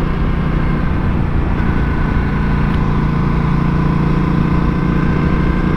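Honda Africa Twin CRF1000L's parallel-twin engine, fitted with a Yoshimura exhaust, running at a steady cruise while riding, with wind and road rumble underneath.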